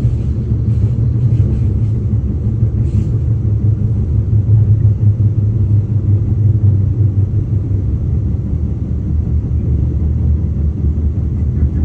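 Steady low rumble of a KTM passenger train running on the track as it pulls into a station, heard from inside the carriage.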